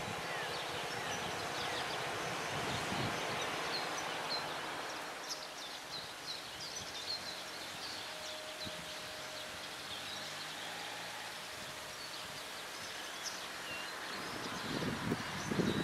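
Outdoor ambience of small birds chirping and twittering over a steady background hiss that eases a few seconds in.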